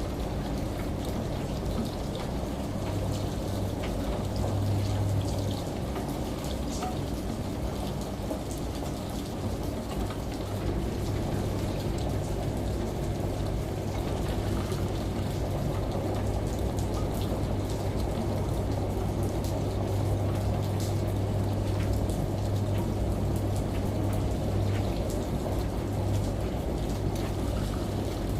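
Steady rain and running water, with scattered drop ticks, over the continuous low hum of a running washing machine.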